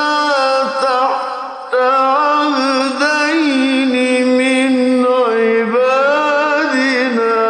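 A male Quran reciter's voice in slow, melodic tajwid recitation, drawing out long held vowels with wavering ornamented turns of pitch. One long note ends about a second and a half in, and a new phrase begins.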